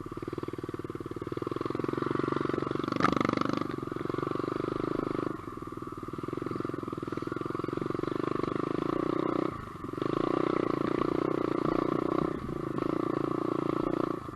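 SSR125 dirt bike's single-cylinder four-stroke engine running while ridden, the throttle opened and eased off several times, with louder stretches and drops about five, ten and fourteen seconds in. A brief sharp clatter about three seconds in.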